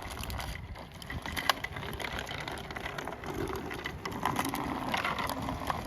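Bicycle riding on a paved street: tyre noise and wind rumbling on the microphone, with scattered clicks and rattles from the bike.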